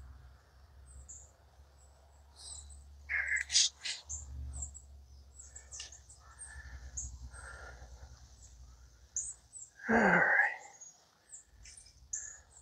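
Small songbirds chirping with many short, high-pitched calls scattered throughout. A brief, louder falling sound comes about ten seconds in.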